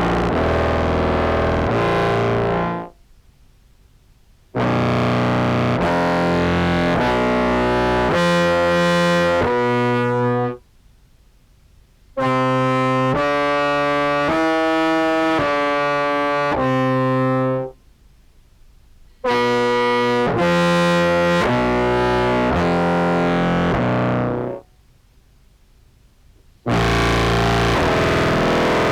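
Contrabass clarinet played through an EHX POG2 octave pedal blending lower and upper octaves into a Behringer Brassmaster fuzz, giving a thick, distorted, buzzy tone. It plays short phrases of held notes, each note stepping to a new pitch every second or so, with pauses of about two seconds between phrases.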